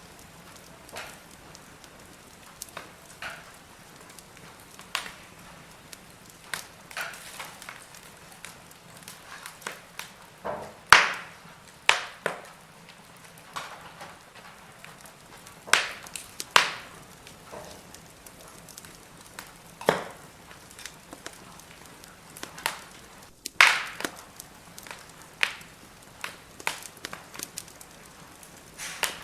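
Firewood burning in a fire pit, crackling with irregular sharp pops over a faint steady hiss. A few pops stand out much louder than the rest.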